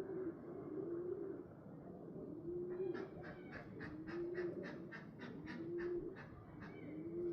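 Homing pigeons cooing, a low rolling coo repeating about every second. A quick series of sharp, higher chirps, about five a second, runs through the middle for about three seconds.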